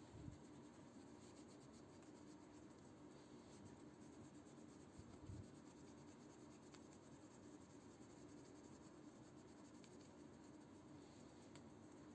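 Faint scratching and rubbing over a low steady hum, with two soft thumps: about a quarter second in and about five seconds in.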